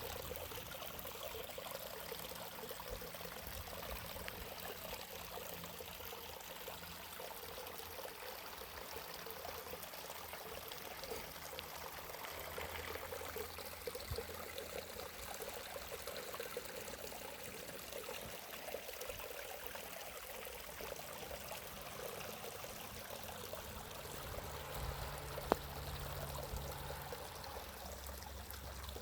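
Steady running water, like a small stream or trickle, with a single sharp click near the end.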